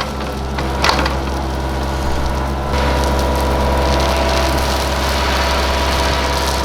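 An engine running steadily, with a knock about a second in; about three seconds in it gets louder and a higher steady tone joins.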